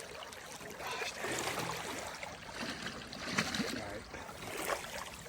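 Water splashing and running, uneven and noisy throughout.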